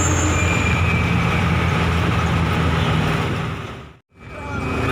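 Steady low engine hum and road rumble of a motor vehicle. The sound fades out to silence about four seconds in, then fades back up.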